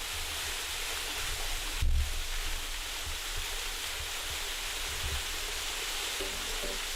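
Waterfall rushing steadily, with a brief low thump about two seconds in. A few music notes come in near the end.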